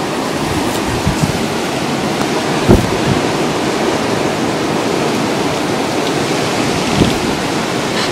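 Blizzard wind rushing hard through an open doorway, a loud steady roar of wind and blown snow, with a few sharp buffets on the microphone, the strongest about three seconds in.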